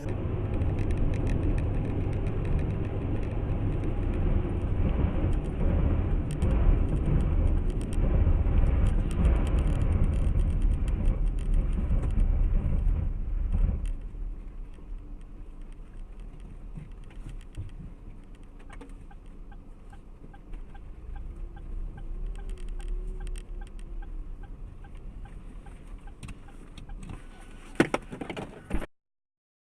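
Car driving, its engine and road noise loud for about the first half and then quieter. Later a run of evenly spaced faint ticks sounds, and a sharp knock comes near the end before the sound cuts off.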